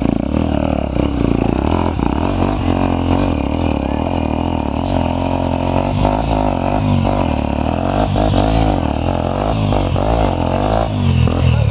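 Trail motorcycle engines running, their pitch wavering up and down with the throttle.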